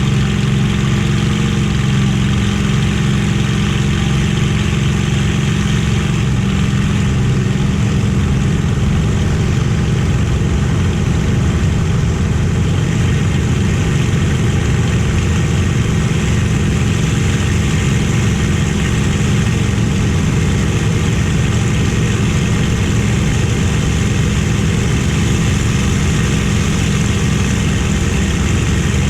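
Steady drone of a Merlin V-12 piston aero engine at constant power, holding an even pitch and level with no rise or fall.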